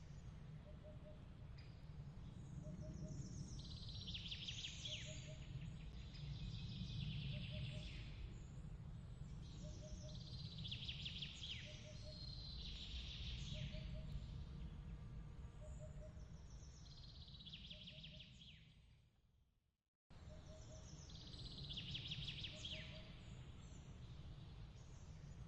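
Mixed nature ambience: songbird trills recurring every two to three seconds over a steady low rumble, with a soft repeated double chirp about every second and a half. The whole bed fades out about twenty seconds in, then starts again as the loop restarts.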